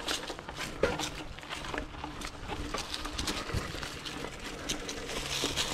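Mountain bike rolling over a dirt trail: tyre noise with irregular clicks and rattles from the bike.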